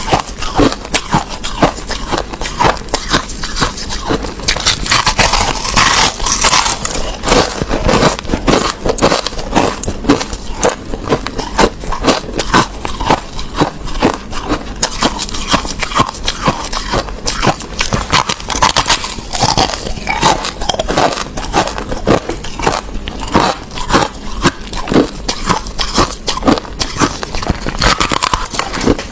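A mouthful of crushed ice being chewed: a dense run of sharp, irregular crunches, several a second.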